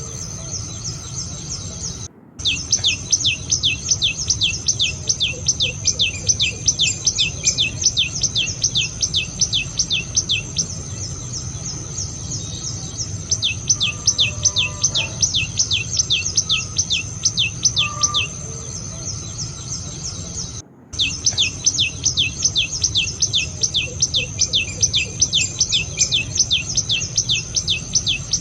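Common tailorbird calling: long runs of sharp, high, downward-sweeping notes repeated about four times a second, pausing now and then. A steady high-pitched insect whine runs underneath.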